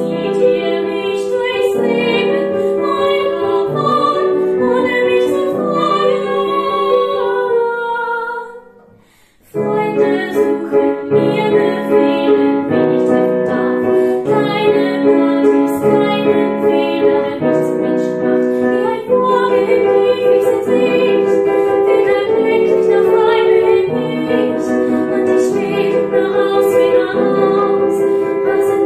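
A woman singing with piano accompaniment. The music fades out and breaks off for about a second, roughly nine seconds in, then picks up again.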